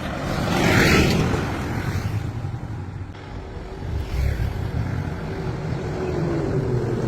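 A motor vehicle's engine running, its rumble swelling about a second in and again around four seconds in.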